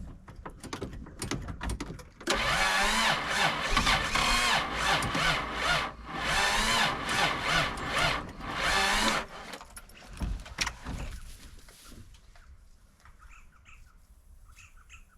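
Ford crossflow 250 straight-six being cranked on the starter and trying to fire, about seven seconds of loud, uneven turning over that stops about nine seconds in, after a few clicks; the throttle linkage has just been reconnected after a lost ball clip had kept it from starting. Two short bursts follow, then faint bird chirps.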